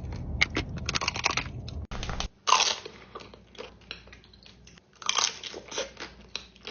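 A person biting into and chewing a dessert close to the microphone: a run of short, crisp bites and chews, with a sudden drop in background about two seconds in.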